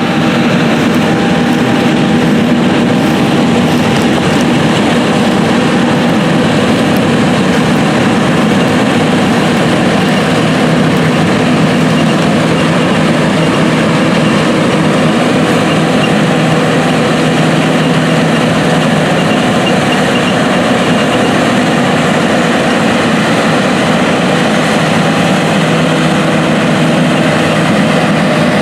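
Big John Deere farm machinery running steadily, a diesel engine's steady tone over a dense mechanical noise with no change in pace.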